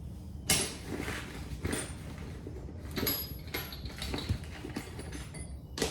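Scattered light clicks, knocks and short metallic clinks of hand tools and sockets being handled and set down, with a low steady hum underneath.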